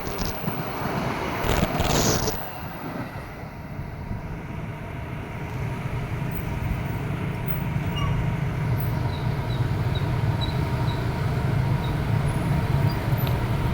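Wind buffeting the camera microphone for about two seconds, then a train's steady low rumble that slowly grows louder.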